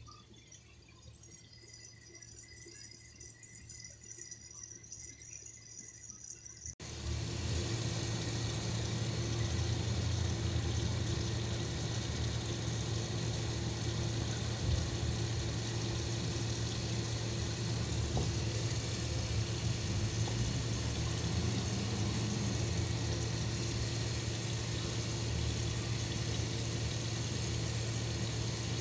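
Quiet, irregular water sounds, then about seven seconds in an abrupt change to a steady rush of running water with a low hum underneath.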